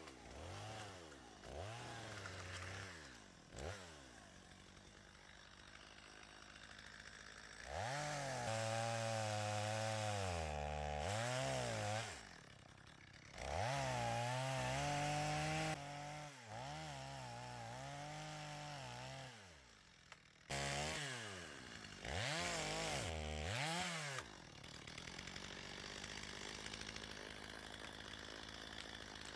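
Two-stroke chainsaw revved hard in several bursts, the loudest two in the middle, dropping back to a lower idle between them.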